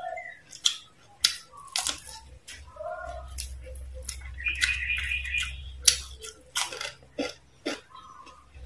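Close-miked crunching and chewing of crispy deep-fried frog: a string of sharp, irregular crunches.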